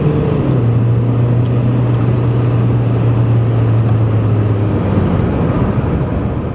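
VW Bora TDI's turbodiesel engine heard from inside the cabin under hard driving, with road noise. About half a second in, the engine note drops sharply as it shifts up a gear, then holds a steady pitch.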